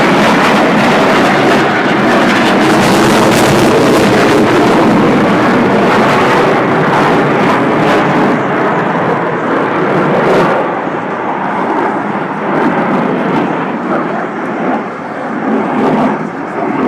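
Roar of F/A-18 Hornet jets flying past, loud for about ten seconds and then fading and wavering as they move away.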